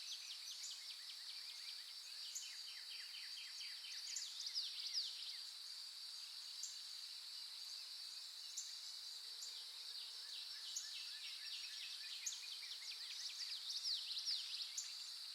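Forest dawn chorus: a steady high insect drone under birds singing in quick chirps and trills, busiest in the first few seconds and again near the end, with single high notes in between.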